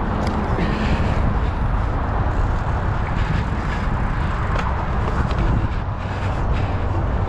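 Steady low rumble of riding noise, wind on the microphone and fat BMX tyres rolling on pavement, with a few faint ticks.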